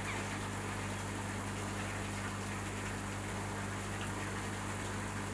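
A steady low electrical hum, unchanging throughout, under a constant hiss of background noise.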